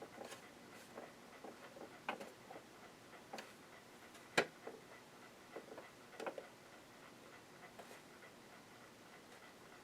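Scattered light clicks and taps at uneven intervals, from small screws, a screwdriver and the plastic casing of a Janome ME4014 sewing machine being handled during disassembly. The sharpest tap comes about halfway through.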